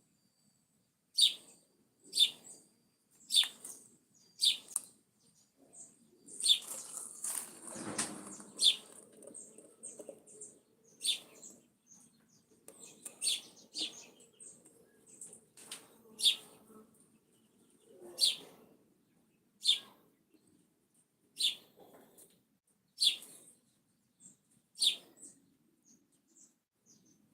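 A bird chirping: short, sharp high calls repeated about every second or two, with a stretch of rustling noise about a quarter of the way in.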